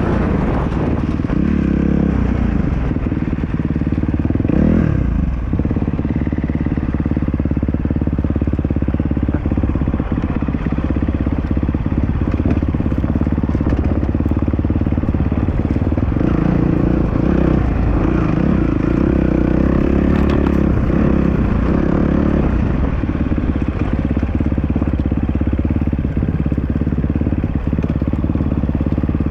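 Dirt bike engine running steadily, its pitch wavering up and down a few times, most noticeably in the middle of the stretch.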